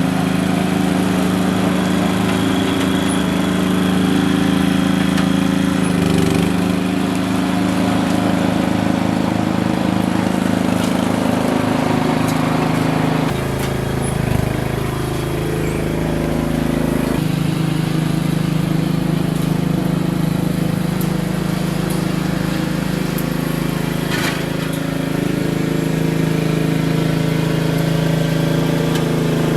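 Petrol lawn mower engine running steadily, its note shifting and dipping for a few seconds midway before settling back to the same steady run.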